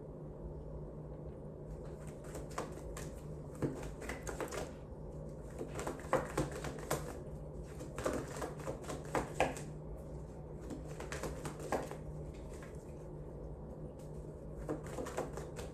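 A deck of cards being shuffled and handled: irregular soft clicks and flicks, thickest in the middle stretch, over a low steady hum.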